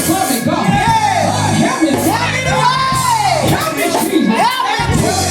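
Church music holding steady low chords while a voice cries out over it in long shouts that rise and fall, whooping at the climax of a sermon, with crowd shouts in the background.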